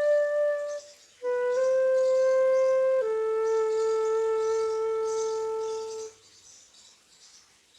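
Solo flute playing a slow melody. A held note ends just under a second in; after a short breath come a couple of notes, then a long lower note held for about three seconds, which stops about six seconds in and leaves a quiet pause.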